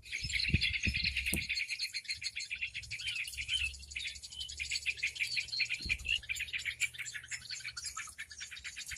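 Recorded bird-lure track of many small birds chirping and twittering at once, a dense rapid chatter with no pauses, used to draw birds in.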